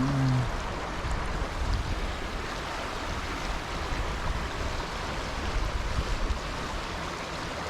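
Steady rush of stream water, with wind rumbling on the microphone that comes and goes, strongest a little after halfway.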